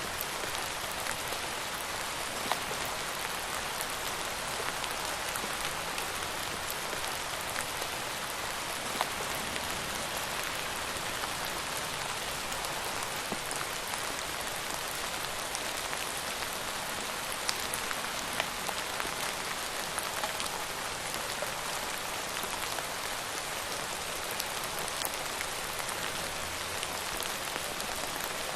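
Steady rain falling, a continuous patter with individual drops ticking sharply here and there.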